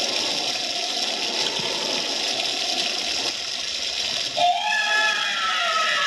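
Haunted-house sound effects: a steady, howling, wind-like hiss with a faint wavering, gliding wail under it. About four and a half seconds in, louder, eerie gliding wails begin.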